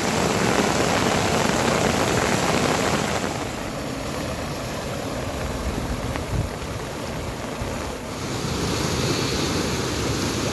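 Steady rushing noise of heavy rain. It turns quieter and duller about three seconds in, then grows louder again near eight seconds.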